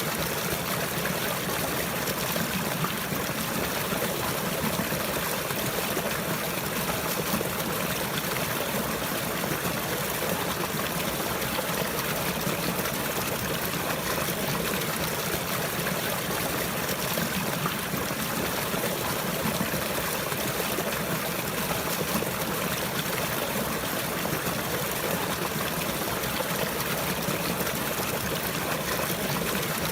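Running water, a steady trickling flow like a small stream, unbroken and even throughout.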